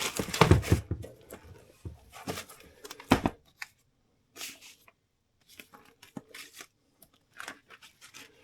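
Crinkling and rustling of handled papers. The crackles are loudest in the first few seconds, with sharp ones about half a second and three seconds in, then they thin out to scattered small rustles and clicks.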